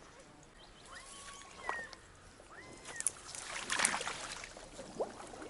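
Water splashing and sloshing in a few short bursts, the biggest about two thirds of the way through, as a popper lure is worked across the surface or the angler moves in knee-deep water. Faint thin whistles, like bird calls, sound in the first half.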